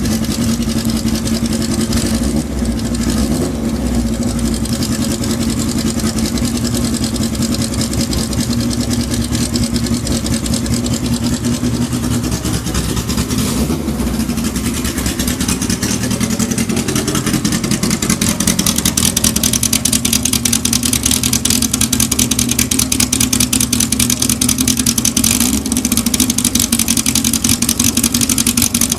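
Kawasaki Z1000ST's air-cooled inline-four engine running at idle with an even beat. It gets a little louder and brighter from about halfway through.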